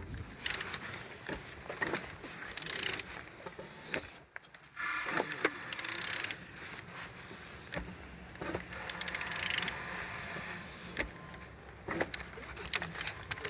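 Nissan YD22DDTi four-cylinder diesel engine being turned over by hand with a tool: irregular metallic clicks and scrapes, with several hissing puffs a second or so long. The engine turns freely and builds compression on all cylinders.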